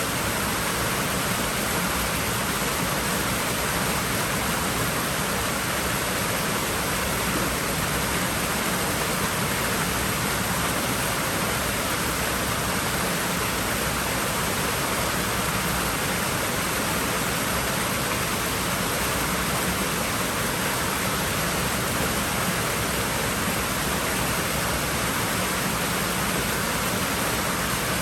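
Water rushing steadily in a swimming pool: an even, unbroken hiss that holds the same level throughout.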